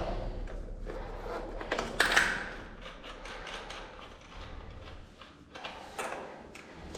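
Tools and metal parts being handled during the repair of an engine-driven fire pump: irregular clicks and clanks, with a louder clatter about two seconds in.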